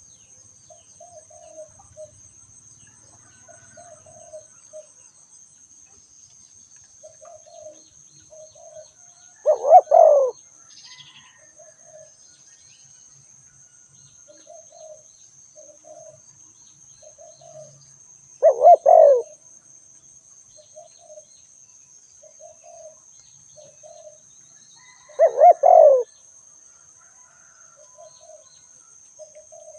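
Spotted dove cooing: three loud coos, each a short run of two or three notes about eight seconds apart, with fainter short coos between them. A steady high-pitched buzz runs underneath.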